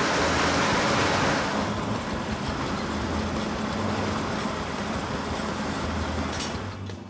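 Large industrial wood grinder running: a steady low machine drone under a loud rushing, grinding noise that thins out about a second and a half in and fades near the end.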